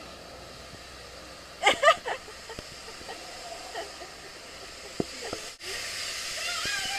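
Steady hiss of water spraying at a car wash, with a brief loud voice sound about two seconds in. The hiss breaks off sharply and comes back louder near the end.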